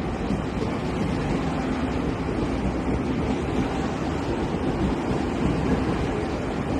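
A Taiwan Railways train passing through the station: a steady rumble of wheels on rail with a faint hum.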